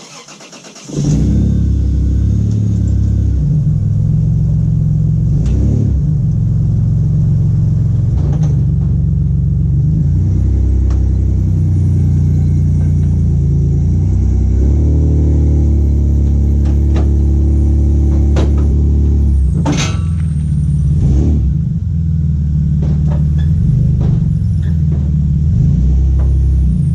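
Toyota Tacoma pickup's engine running under load, its pitch rising and falling with the throttle as the truck pushes a junk car up ramps onto a trailer. A few sharp knocks and clanks are heard along the way.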